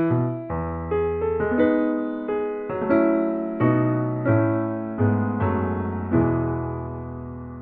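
Background piano music, slow chords and melody notes, with a last chord about six seconds in that is left to fade.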